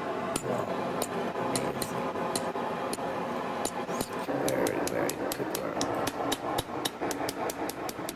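Hammer striking metal again and again, sharp ringing blows a few a second that come faster in the second half.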